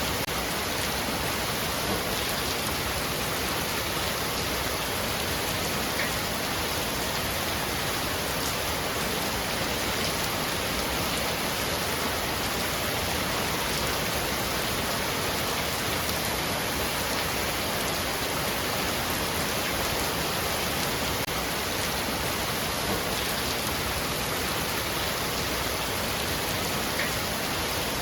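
Heavy rain falling steadily on a roof: an even, unbroken hiss with an occasional single drop ticking out above it.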